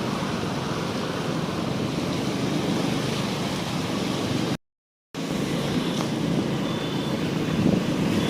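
Steady rushing noise of a vehicle on the move, with road and water noise mixed in. It cuts out completely for about half a second near the middle.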